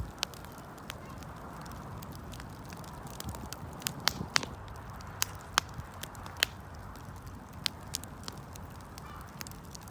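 Wood fire burning, with a steady low rush of flames and scattered sharp crackles and pops from the burning wood, the loudest coming in a cluster about four to six seconds in.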